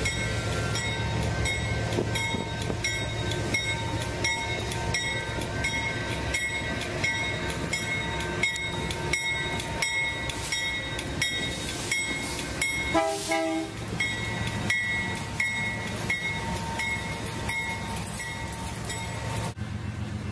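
BNSF GE Dash 9 diesel locomotives pulling a loaded grain train past at speed: a steady engine drone under a rhythmic clickety-clack of wheels over rail joints, with a thin high ringing from the wheels on the curve. A short horn sound comes about two-thirds of the way in.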